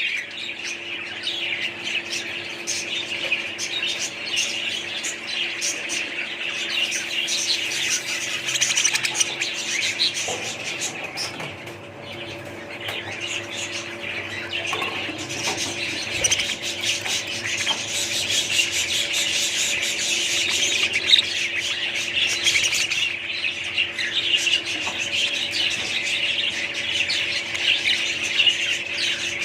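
A flock of small caged birds chirping and chattering without a break, with squawks mixed in. A faint steady hum runs beneath.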